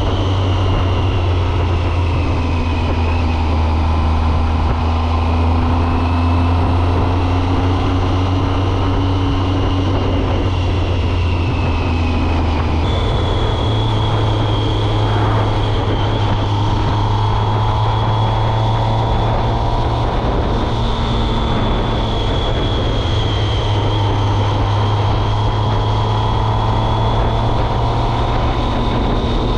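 2006 Triumph Speed Triple's 1050 cc three-cylinder engine pulling at a steady road speed, heard from the rider's seat. About 13 seconds in, the engine pitch jumps up suddenly and then holds steady at the higher note.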